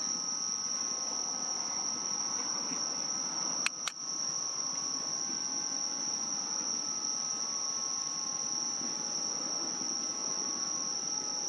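Steady high-pitched chorus of crickets trilling without pause, with two sharp clicks close together about three and a half seconds in.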